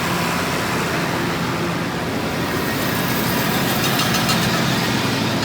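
Grain auger and tractor-driven feed grinder running steadily, a continuous mechanical hum and rush, with a fast ticking rattle coming in about halfway as the machinery works.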